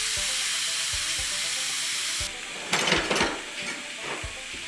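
Food sizzling in a hot frying pan; the sizzle drops off a little over two seconds in, followed by a brief clatter of stirring in the pan. Faint background music with a steady beat runs underneath.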